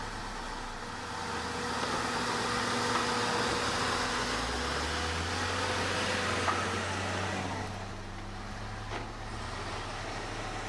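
Heavy earthmoving machine's diesel engine running, louder and slightly higher in pitch through the middle as it works under load, then easing back. A sharp click about six and a half seconds in.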